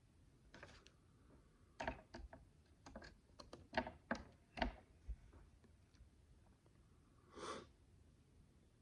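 Miniature plastic micro bricks clicking and tapping as they are handled and pressed together: a quick run of small sharp clicks over about four seconds, then a short soft hiss near the end.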